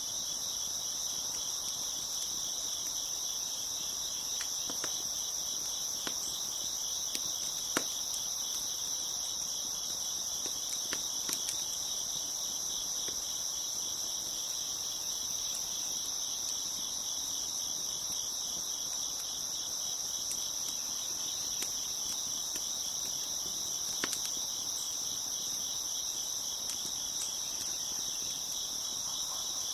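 Steady dense chorus of crickets chirping, with a few sharp pops and clicks of a wood fire crackling scattered through it, the loudest about 8 and 24 seconds in.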